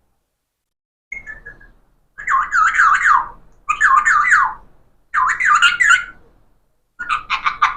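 Parrot calling: a short falling whistle, then three warbling calls of about a second each made of quick rising and falling notes, and a rapid run of pulsed notes near the end.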